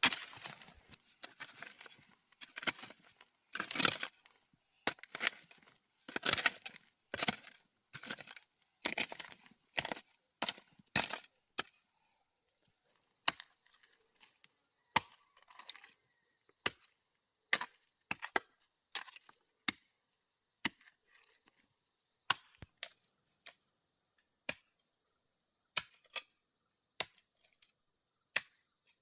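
Repeated chopping or striking blows with a hand tool, about one a second. The blows are heavier and followed by short rattles for the first dozen seconds, then turn to lighter, sharper knocks.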